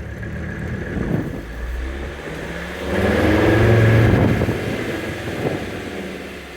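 Mercedes turbo diesel engine in a 1994 Toyota 4Runner, heard from inside the cab while driving. It grows louder about three seconds in as the truck pulls under load, then eases back down.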